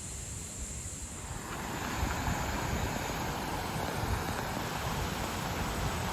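Wind buffeting the microphone in low, uneven gusts, with a steady rushing noise setting in about a second and a half in.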